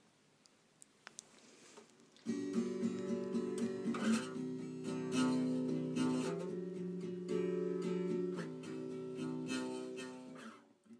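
Acoustic guitar music, strummed, beginning a couple of seconds in after a short quiet stretch with a few faint clicks, and fading out near the end.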